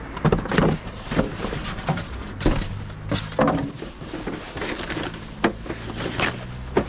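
Irregular knocks and clatters of discarded household items being rummaged through and tossed. The loudest come about half a second in and again around two and a half and three seconds in, over a low steady hum.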